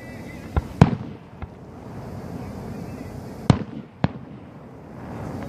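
Display fireworks going off: sharp bangs of aerial shells bursting, two close together about half a second and a second in (the second the loudest), a faint one shortly after, and another pair about three and a half and four seconds in.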